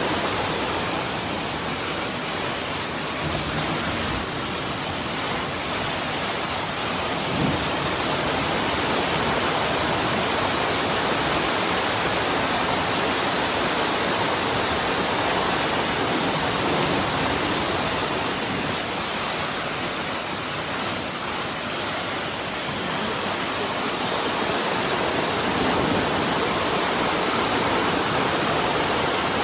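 Heavy rain pouring down with rushing floodwater: a loud, steady hiss with no break.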